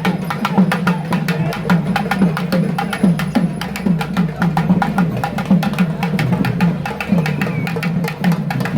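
Drums played in a fast, dense rhythm for the Pettai Thullal dance, with voices mixed in.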